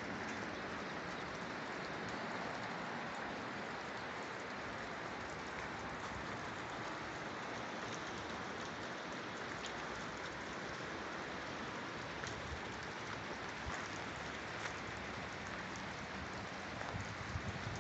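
Steady, even hiss with faint scattered ticks, like rain falling.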